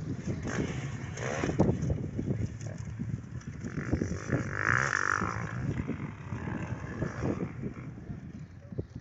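Motocross bike engines revving on a practice track, pitch rising and falling with the throttle, louder for a moment about five seconds in.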